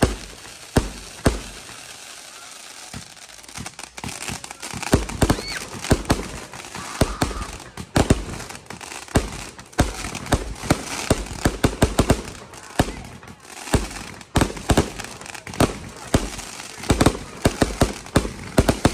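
Fireworks going off: scattered bangs at first, then from about four seconds in a dense, rapid run of bangs and crackles.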